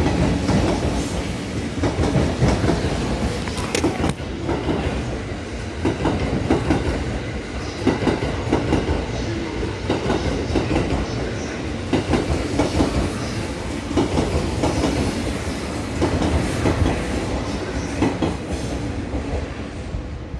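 Train Suite Shiki-shima passing through a station without stopping. Its wheels rumble and clatter over the rail joints in a long, steady run of clickety-clack.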